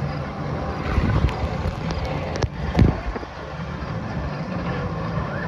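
Water sloshing and splashing around tubes on a lazy river, with wind buffeting the microphone. There are a few louder knocks, about one second and about three seconds in.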